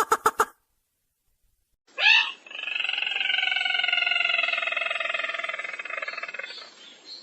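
Bird lure recording of the sintar merah (ruak-ruak call). A rapid run of sharp notes ends just after the start. After a short pause, a quick upward note leads into a long, buzzy, slowly falling trill lasting about five seconds.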